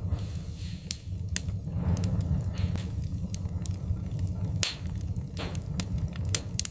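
Wood fire crackling, with irregular sharp pops and snaps over a steady low rumble; a couple of louder snaps come in the second half.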